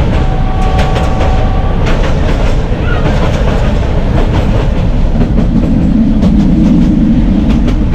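Narrow gauge train running, heard from on board: a steady rumble with the clickety-clack of wheels over rail joints. A brief steady whine sounds near the start.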